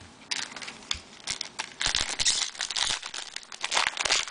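Trading card pack wrapper being crinkled and torn open by hand, in a run of irregular crackling bursts that grow louder through the middle and again near the end.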